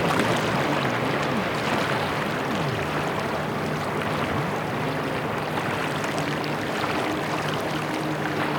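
Steady rushing of rain or water with a low engine hum beneath it. The hum's pitch slides down and back up a few times in the first three seconds, then holds steady.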